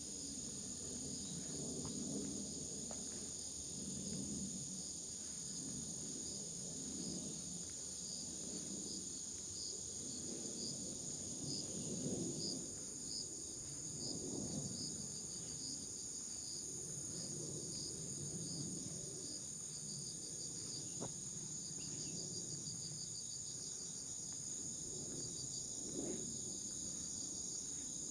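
A steady, high-pitched chorus of insects singing, with one repeating pulsed chirp, over soft footsteps on a forest trail at a walking pace.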